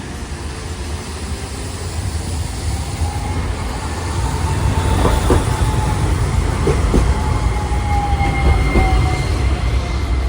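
Hiroshima Electric Railway streetcar approaching along wet street track. A low rumble grows louder, with a steady whine that slides slightly down in pitch, and several clacks from about five seconds in as the wheels cross rail joints.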